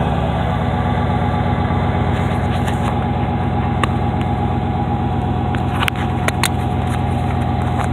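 350 cubic-inch V8 engine idling steadily, freshly started. A few sharp clicks sound over it past the middle.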